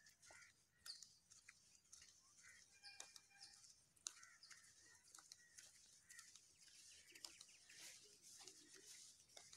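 Near silence with faint, scattered bird calls and a few small clicks.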